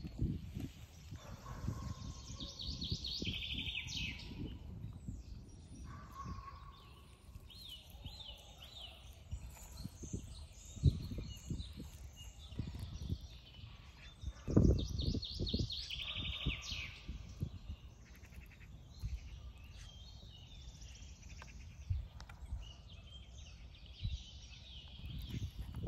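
Songbirds singing in short repeated trills, over a low rumbling noise with scattered dull knocks, the loudest a little past the middle.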